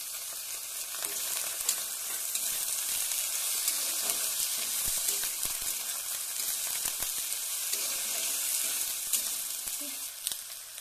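Diced potatoes and onions frying in hot oil in a kadhai: a steady sizzle, with now and then a sharp click or scrape of a steel spatula stirring them.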